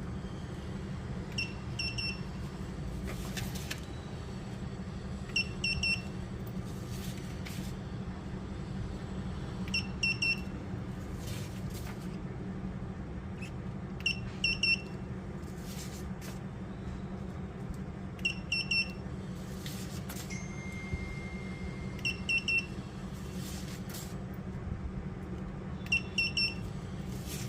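A small printing machine running in a repeating cycle. Under a steady low hum there is a group of three short high beeps about every four seconds, and a sharp click between each group of beeps.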